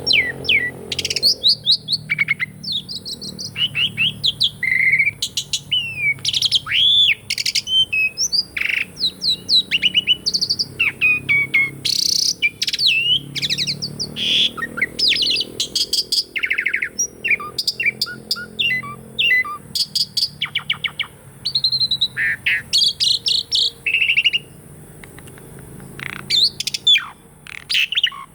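Asian pied starling (jalak suren) singing a long, varied song of whistles, rising and falling glides, chirps and rapid rattles, almost without a break, with a short pause near the end.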